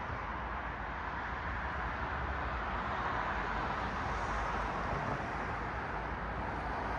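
Road traffic: steady tyre and engine noise of cars passing, swelling a little about halfway through as a car goes by.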